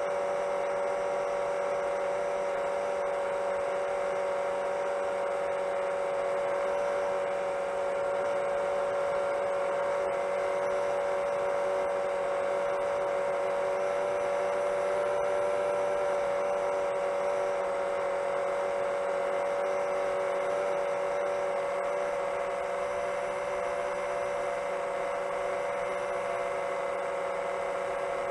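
Seven-inch long-range quadcopter's brushless motors and propellers whining steadily at cruise, one strong pitch with fainter tones above it, rising a little about halfway through.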